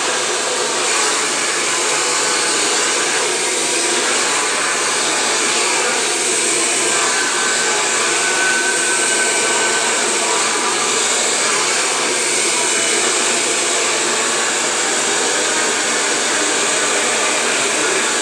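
Hair dryer running steadily with an even, loud rushing hum of blown air.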